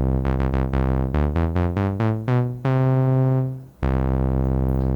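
Single-oscillator modular synthesizer with a short envelope bending its pitch at the start of each note, giving a quick horn-like 'lip' blip to the attack. A fast run of about a dozen notes, then a held note that fades out and a second held note.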